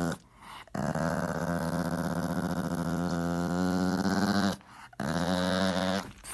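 A dog growling in long, drawn-out grumbles, the longest lasting about four seconds, followed after a short pause by a shorter one.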